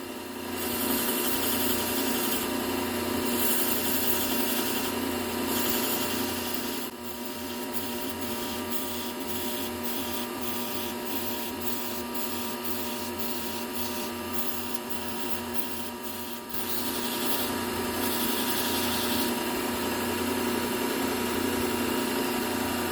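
Low-speed belt sander running with a steady hum while the serrated edge of a Wusthof steel knife is ground across the belt to draw up a burr; the grinding hiss swells and fades with each pass. From about seven to sixteen seconds in it turns into a run of short rasping strokes, about two a second.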